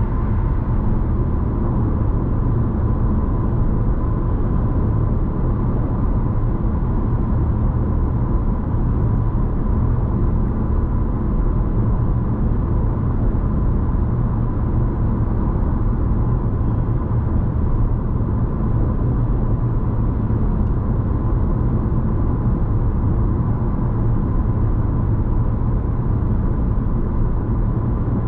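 Steady road and engine noise inside the cabin of a Honda ZR-V on the move, a low even rumble with a faint steady high whine over it.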